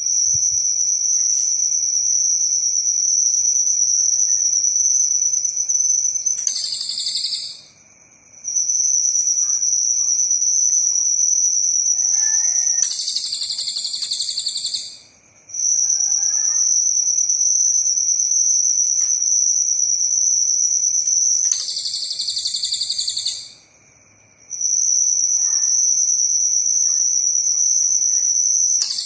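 Cililin bird singing long, high, unbroken trills that each last several seconds and end in a louder, fuller burst, about four times over with brief pauses between. A faint steady lower drone runs underneath.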